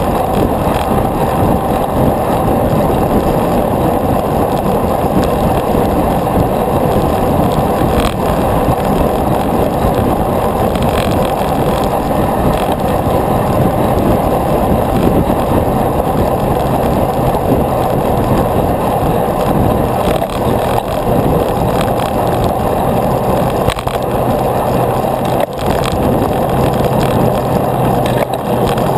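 Steady, loud rushing noise of a bicycle ride in motion, road and air noise without a break, with a low steady hum joining about halfway through.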